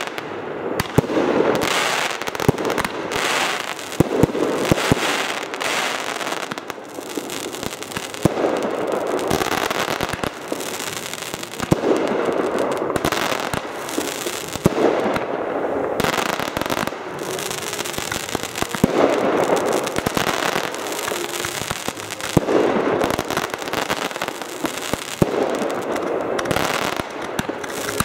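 A fireworks display going off continuously: many sharp bangs and crackling, with a heavier burst every few seconds.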